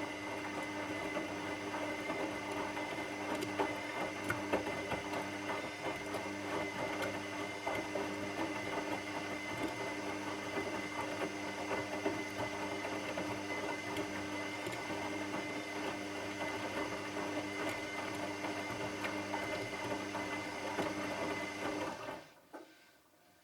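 Washing machine running with a steady motor hum and drum churn, holding several constant tones, then stopping abruptly near the end.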